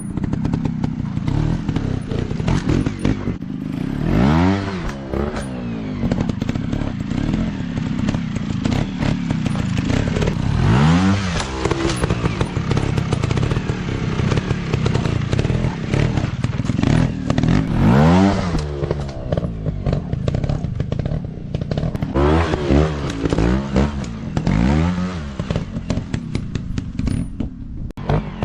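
Off-road dirt bike engines running hard, the revs climbing and dropping several times as the throttle is opened and closed.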